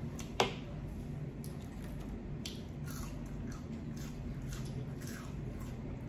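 A person chewing food close to the microphone, with small wet mouth clicks and smacks every second or so over a low steady hum. A single sharp click about half a second in is the loudest sound.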